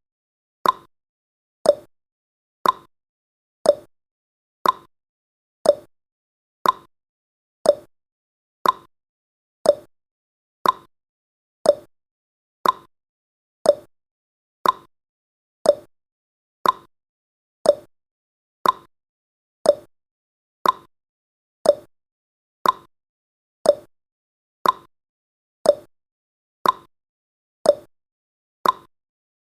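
Clock-ticking sound effect of a countdown timer: one sharp tick every second, alternating a higher and a lower tick like a tick-tock.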